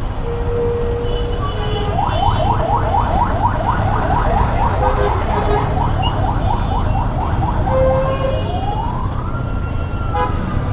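A siren yelping in quick rising sweeps, about four or five a second, then switching to a slow wail that climbs, holds and slowly falls. A steady low rumble of traffic runs underneath in a jammed road.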